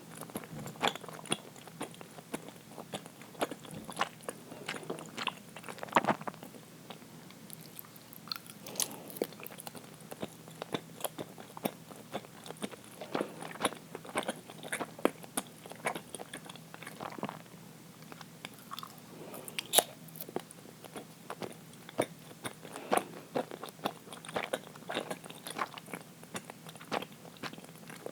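A person chewing and biting uiro, a soft, sticky Japanese steamed rice cake, close to the microphone: many short, irregular mouth clicks and smacks.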